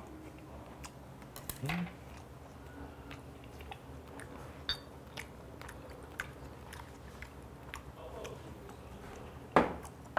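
Close-miked chewing and mouth clicks of someone eating braised fish, with a brief low hum about two seconds in. Near the end comes one sharp knock as a bottle is set down on a wooden table.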